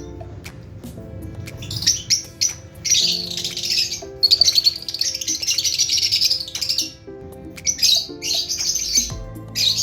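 Lovebirds chirping and squawking in rapid, shrill chatter, with a long unbroken run in the middle and shorter bouts near the end, over background music.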